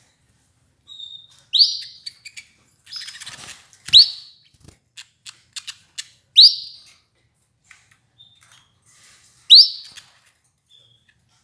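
Domestic canaries (Belgian canaries) giving short, sharp rising call notes, four loud ones spaced a couple of seconds apart, with a few faint clicks in between.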